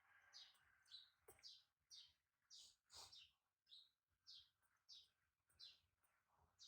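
Faint bird chirping: short, high chirps repeated evenly about twice a second.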